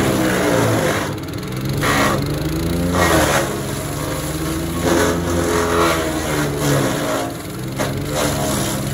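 Power King wood chipper's gas engine running while it chips branches. The engine note sags and recovers several times as the wood feeds in, over a crunching, grinding rattle of the branches being cut up.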